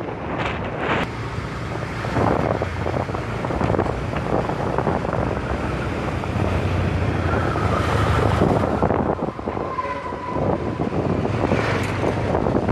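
Wind rushing over the microphone and road noise on a moving motorbike in traffic, with a low engine drone. A couple of brief steady tones sound partway through.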